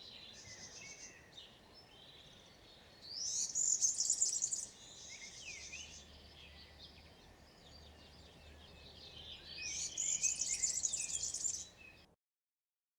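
European serin singing: two bursts of its high, fast, jingling song, each about two seconds long, with softer twittering between them. The sound cuts off abruptly near the end.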